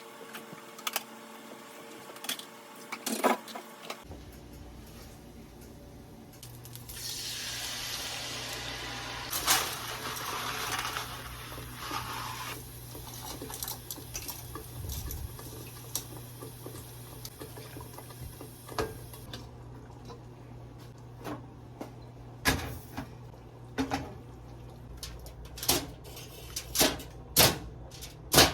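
Kitchen cooking sounds: a tap runs with a loud hiss for about five seconds, a low hum goes on underneath, and towards the end there are scattered clinks and knocks of utensils and cookware.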